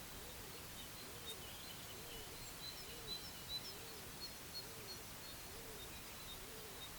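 Woodland birds calling by a lake: many short high chirps and twitters, with a low arching hoot-like call repeating about once a second.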